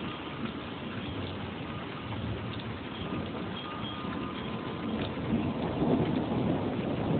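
Thunder rumbling over steady rain during a thunderstorm, the rumble building louder near the end.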